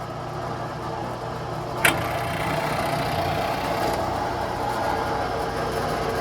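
Belt-driven drill press motor running steadily. A sharp click comes about two seconds in, after which the sound grows louder and rougher.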